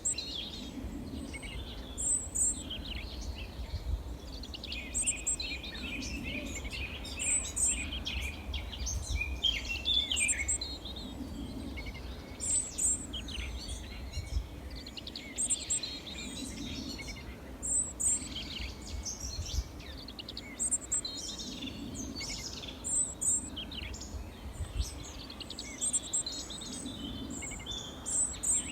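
Small songbirds chirping and twittering, with a thin, high call that repeats every two seconds or so, over a steady low rumble.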